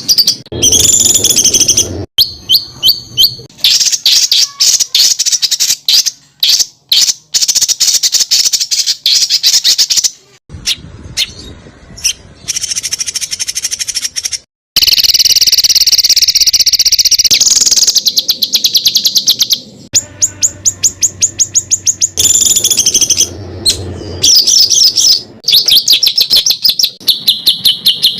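Loud songbird song spliced from several recordings, with abrupt cuts between clips. It is made up of fast runs of repeated high, sharp notes and trills: the rapid 'tembakan' phrases used as masteran material for training competition songbirds.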